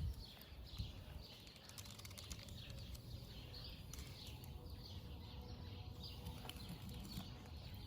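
Small birds chirping over and over in quick, falling notes, over a low rumble of wind on the microphone.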